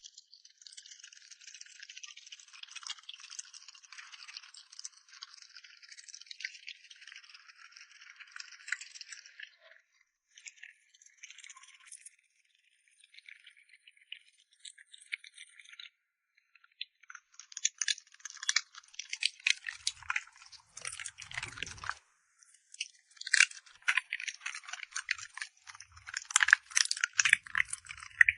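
A dog eating from a bowl: dense, rapid crunching and clicking that runs on for about ten seconds, thins out, then comes back louder and faster in the second half, with a few dull low thuds.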